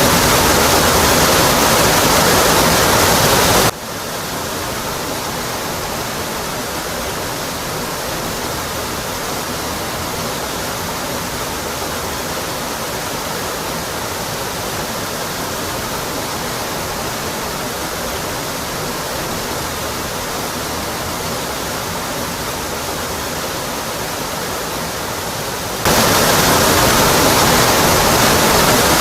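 Rocky Brook Falls waterfall, a steady rush of falling water. About four seconds in it drops suddenly to a quieter, thinner rush with less low rumble, and jumps back to the full, louder roar near the end.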